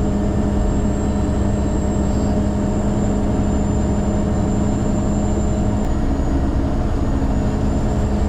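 Heavy rotator tow truck's diesel engine running steadily, a constant low drone with a thin high whine above it.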